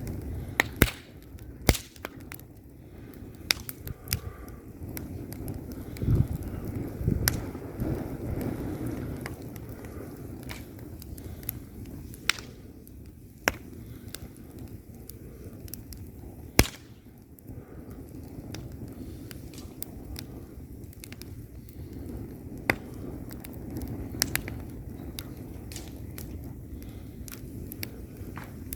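Wood fire burning in a fireplace: a low steady rumble of flames with irregular sharp crackles and pops from the burning logs, a few of them louder snaps.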